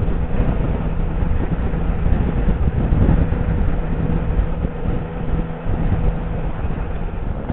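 Motorcycle engine running steadily, with low wind rumble on the helmet microphone.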